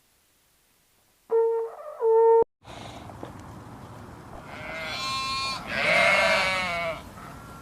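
Two short steady tones about a second in, then a bleating animal giving two long wavering bleats over an outdoor background, the second one the loudest.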